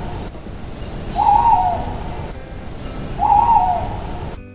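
Owl hooting: two hoots about two seconds apart, each rising then falling, over a steady background hiss.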